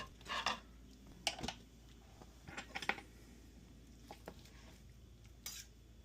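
A few light, scattered clinks and knocks of a ladle and dishes as food is served from a slow cooker.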